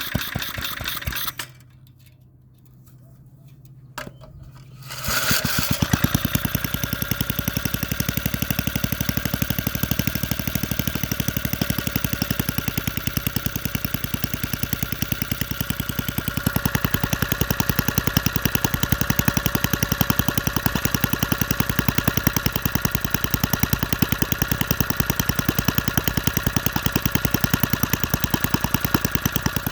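Briggs & Stratton single-cylinder engine running at a low idle with an even beat of firing strokes. It drops out about a second and a half in, with a click a couple of seconds later, and runs again steadily from about five seconds in, a little louder from about halfway.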